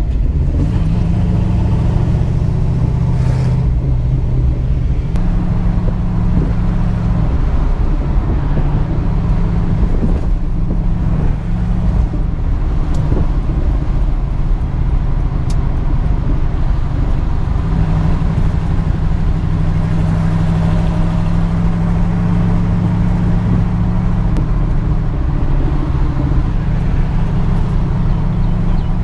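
1966 Ford Mustang's 289 V8 running at a steady idle shortly after a cold start.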